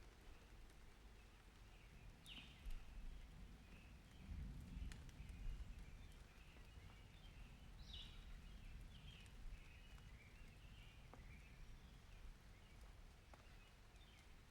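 Faint rain-and-thunder ambience: a soft steady hiss with scattered drip clicks and a low rumble of distant thunder about four seconds in. Faint short high chirps or squeaks come and go over it.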